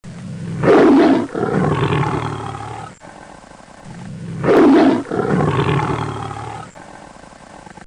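Lion roaring twice, about four seconds apart; each roar starts with a loud burst and trails off in a longer, lower rumble.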